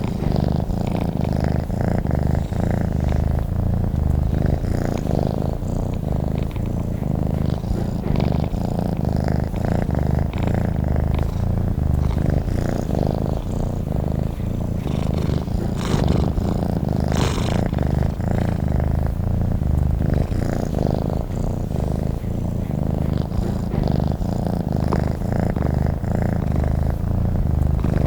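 A domestic cat purring steadily: a low, continuous rumble without a break.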